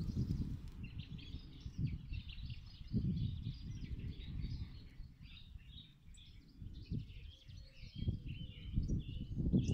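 Several small birds singing and chirping continuously over a low, uneven rumble.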